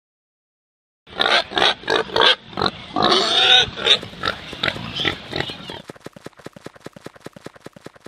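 Pig sound effect: a series of grunts and oinks starting about a second in, with a longer squealing call around the middle, then a quick run of short grunts that fades away.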